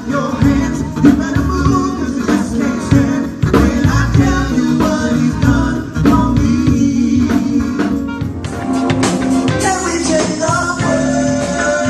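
Contemporary gospel music from a band with drums, bass and guitar keeping a steady beat, and singing coming in over it in the second half.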